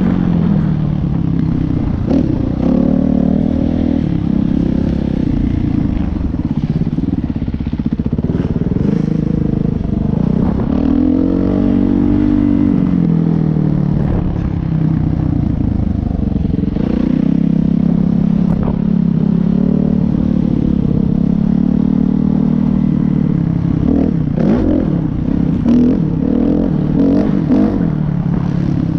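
Motocross dirt bike engines revving up and down continuously, the pitch rising and falling as the riders work the throttle through a lap.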